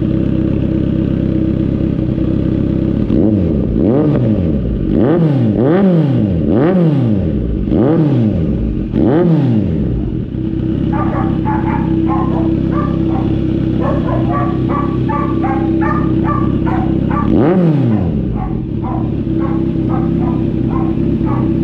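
Motorcycle engine idling through a newly fitted Austin Racing aftermarket muffler. It is blipped six times in quick succession, the pitch rising and falling each time, then once more near the end: a sound check of the new exhaust.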